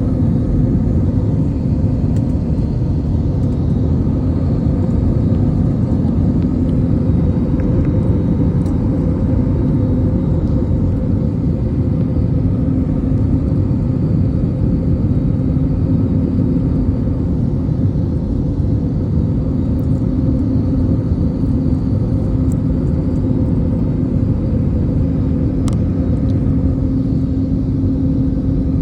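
Steady low rumble of a running vehicle, with a constant hum that does not change.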